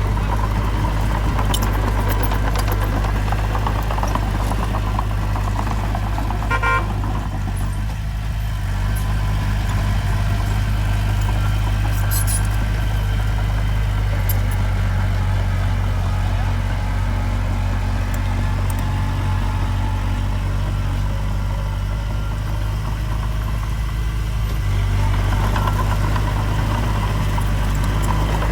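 Diesel engine of heavy earthmoving machinery running steadily, a deep low hum, with a brief rattle about a quarter of the way in.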